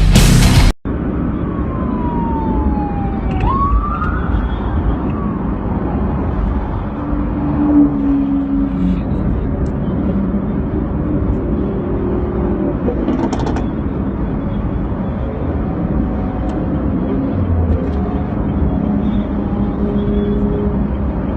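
Loud music cuts off just under a second in, giving way to steady traffic and engine noise on a road. A police escort car's siren sweeps down and then back up once, about two to four seconds in.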